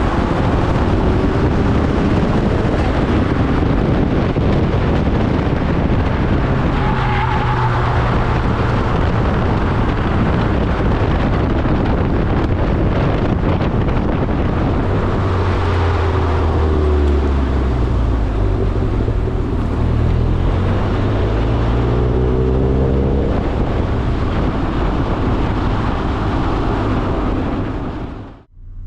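Turbocharged Mazda MX-5 engine driven hard, its note climbing and falling again and again as it accelerates and shifts gear. The sound drops out abruptly for a moment near the end.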